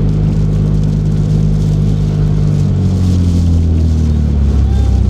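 Car engine and road drone heard from inside the cabin while driving, a steady low hum whose pitch slides lower about three seconds in as the engine slows.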